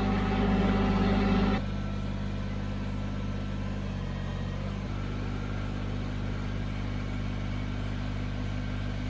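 Kubota BX23s tractor's three-cylinder diesel engine running steadily. Its sound drops off suddenly about one and a half seconds in, then carries on at a lower, even level.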